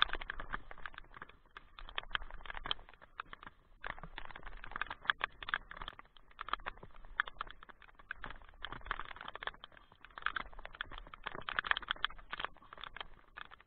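Rain falling in a squall, drops tapping irregularly and thickly on the camera close by, in uneven waves of heavier and lighter rain.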